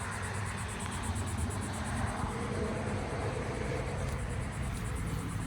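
Steady low rumble of outdoor background noise, with a faint fast pulsing high up.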